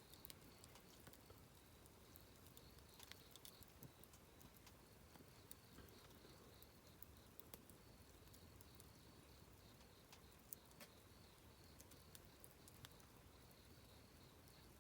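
Wood campfire crackling quietly: scattered small pops and snaps, one sharper pop about ten seconds in, over a faint high wavering tone.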